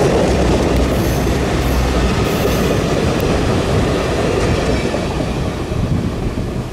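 Train cars rolling on the rails, a steady heavy rumble that eases off slightly over the last couple of seconds.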